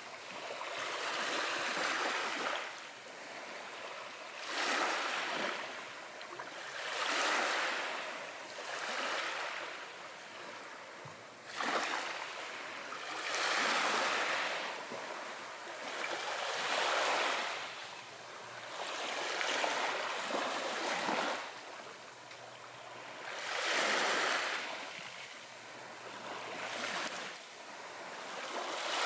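Small ocean waves washing in and drawing back in a steady rhythm, each wash swelling and fading about every two to three seconds.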